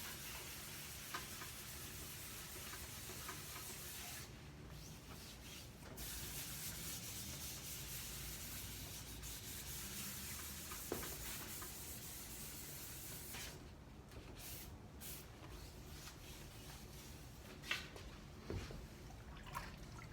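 600-grit wet-or-dry sandpaper on a sanding block, wet sanding primer on aircraft fabric: a steady rubbing hiss that stops briefly about four seconds in and mostly stops after about two thirds of the way through, with a few light knocks near the end.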